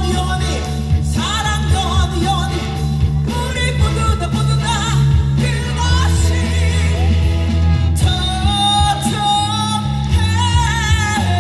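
Female vocalist singing live with a rock band over a steady bass and drum bed, her voice wavering with vibrato; from about eight seconds in, a long note is held.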